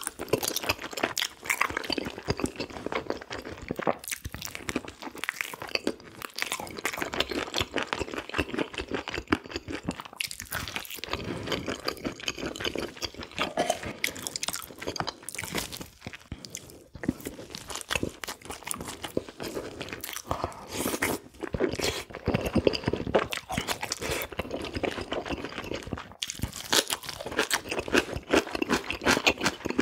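Close-miked eating: a person chewing and biting spicy braised pig's trotters (jokbal), a continuous run of small crunches and clicks.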